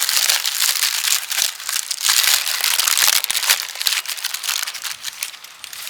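Aluminium foil being crinkled and pulled open, a dense run of sharp crackling and rustling.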